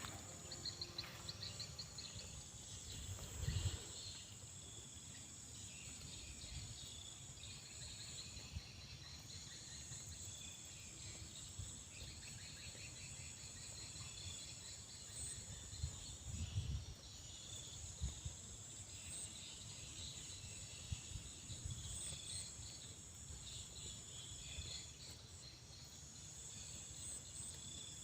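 Faint, steady high-pitched chirring of insects, with a few soft low thumps.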